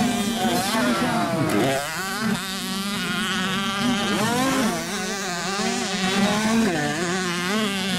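Several 65cc two-stroke motocross bike engines revving, their pitch rising and falling repeatedly as the riders work the throttle around the track.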